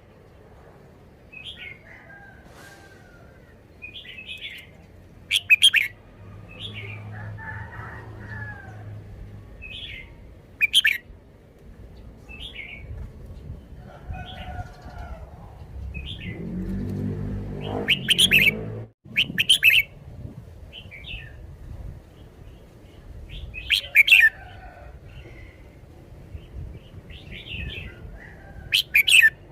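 Red-whiskered bulbul singing short, bright phrases every couple of seconds, a few of them much louder and sharper.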